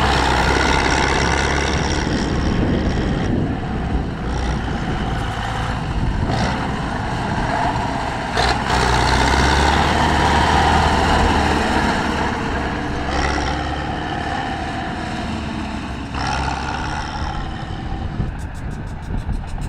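Tractor engine running loud, its sound swelling and easing several times as it is worked.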